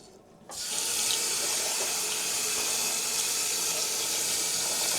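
Kitchen tap turned on about half a second in, running steadily into the sink.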